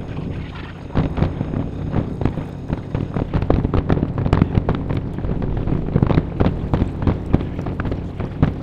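Aerial fireworks shells bursting in a rapid, overlapping barrage: many sharp bangs a second over a continuous low rumble, thickening after about a second in.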